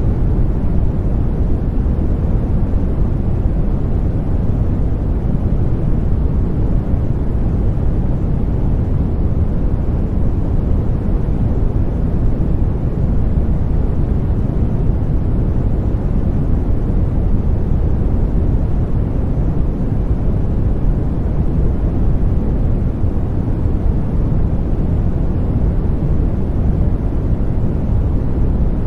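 Continuous baby-sleep white noise: a steady, deep rushing hiss, strongest in the bass, that never changes.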